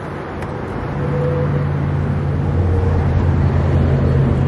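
A vehicle engine running close by: a steady low hum that swells about a second in and holds, over outdoor wind noise on the microphone.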